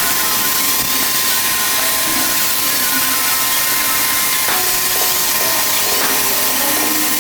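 A power tool running steadily, giving an even, hissy noise with a faint constant whine.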